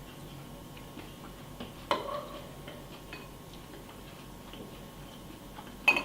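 A spoon knocking twice against a cereal bowl, about four seconds apart, each clink ringing briefly, with faint small clicks in between.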